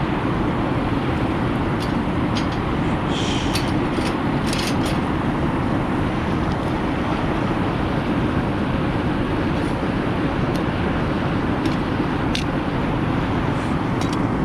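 A steady rushing noise with scattered sharp snaps and crackles from a wood fire burning in the fire pit.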